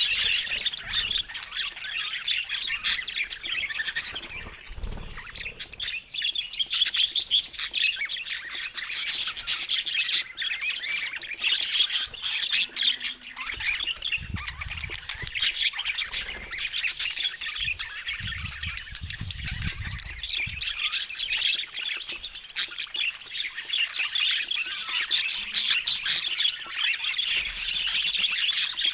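Budgerigars chattering without pause, a dense stream of quick warbles, chirps and short squawks.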